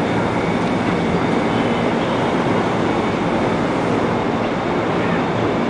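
The Bima express train makes a steady mechanical hum and noise, with faint high whines held steady throughout.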